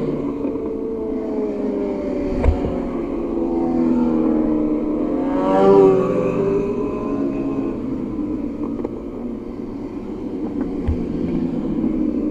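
Superbike racing motorcycles running at high revs, several engines heard at once with their pitch rising and falling through gear changes. One bike passes close about six seconds in, its engine note sweeping up and then dropping as it goes by.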